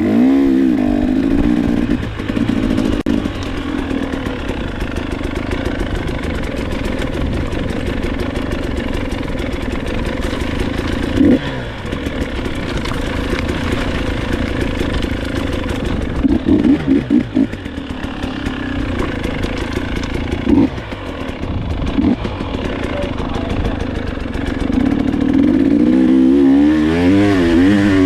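Dirt bike engine running as the bike is ridden, with short throttle blips here and there and repeated revving up and down near the end.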